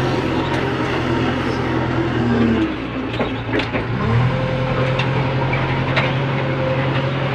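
Heavy diesel engine of a backhoe loader or tractor running with a steady low drone, which drops back about two and a half seconds in and picks up again with a brief rise about four seconds in.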